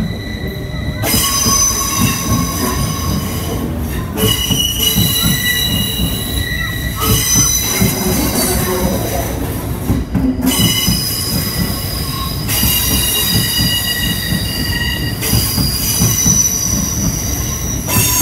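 NS double-deck electric train running past the platform, its wheels squealing in several high steady tones that change pitch every two to three seconds as the cars go by. Underneath runs a constant low rumble and knocking of wheels on the rails.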